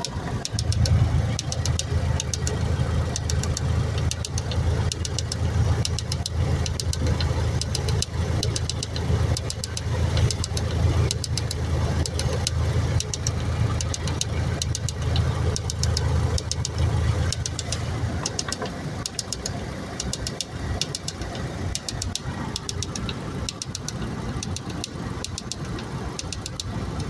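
2002 Honda Civic engine running with a rapid, even ticking knock, the unexplained engine noise the owner is asking about. A deep low hum runs with it and stops about two-thirds of the way in, while the ticking carries on.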